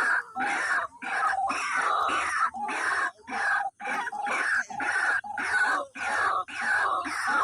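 Wak-wak bird (white-breasted waterhen) calling over and over, a loud, harsh, pitched call about every two-thirds of a second without a break.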